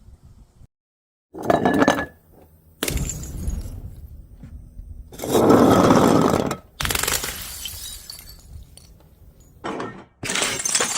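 Glass bottles breaking and being crushed: a run of separate shattering, crunching bursts, each starting and stopping abruptly. The loudest comes a little past the middle.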